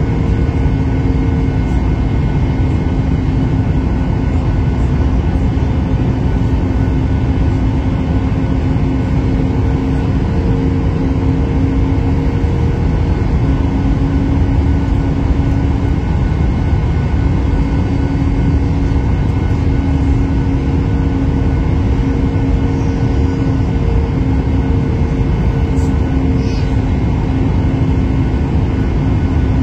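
Steady cabin noise of an airliner in flight: a continuous low rush of airflow and engines, with a steady low hum that swells and fades slightly.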